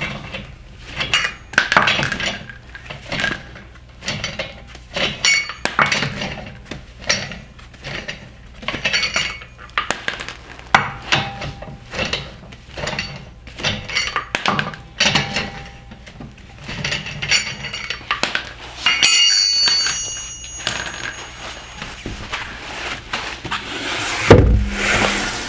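Steel lug nuts being spun off a front wheel stud with a lug wrench and handled, giving many sharp metallic clinks and rattles with a bright ring. A heavier low thump comes near the end.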